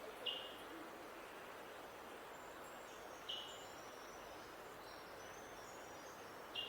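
Birds calling over a steady background hiss: a short, sharp call repeats three times about three seconds apart, with faint high twittering in between.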